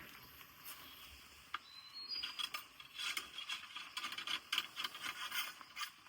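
Irregular rustling and crackling, rubbing and scraping contact noise, growing dense about two seconds in, with a brief high squeak near that point.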